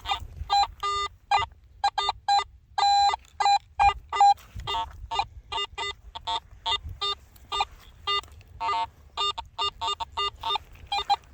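Metal detector sounding a rapid, uneven string of short beeps as the coil sweeps over a buried target, mostly at a higher pitch with some lower-toned beeps mixed in. The detectorist takes the signal as possibly rusty iron.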